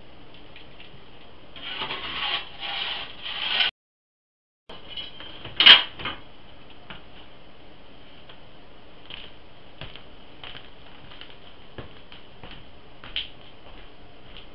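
Metal shovel scraping wood ash in a few short rough strokes, then a single sharp metal clank and faint scattered clicks, over a steady hiss.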